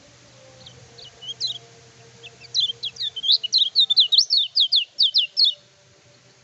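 Kecial kuning bird in full song: a few scattered high chirps, then from about two and a half seconds a fast run of sharp, sweeping notes, about five a second, that stops suddenly near the end.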